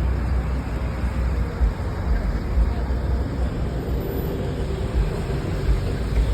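Truck engine running with a steady low rumble and a few short thumps, and a faint steady tone joining about halfway through.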